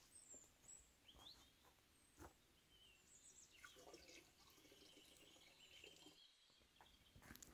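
Near silence with faint bird chirps in the background.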